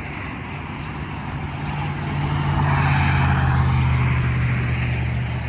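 Highway traffic: a vehicle passing, its low engine hum and tyre noise swelling to a peak about three seconds in and then easing off.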